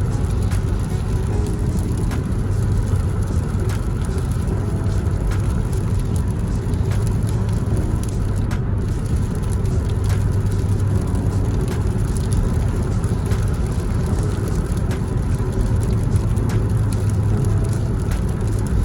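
A car being driven: a steady, low rumble of engine and road noise.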